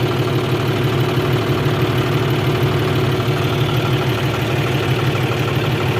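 Tractor engine idling steadily with an even, fast throb.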